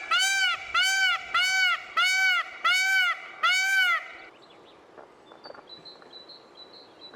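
Indian peafowl calling a rapid series of loud, nasal, arched honks, about two a second, about seven in a row, stopping about four seconds in. Faint high peeps follow.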